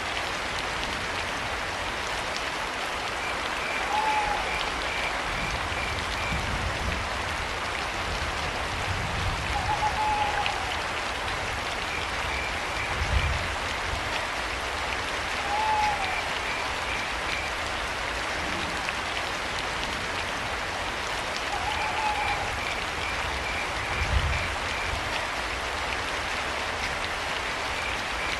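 Steady rain hiss, with crickets chirping in short pulsed trains every few seconds and a short owl hoot that rises and falls, repeated about every six seconds. Two brief low rumbles stand out, about halfway and near the end.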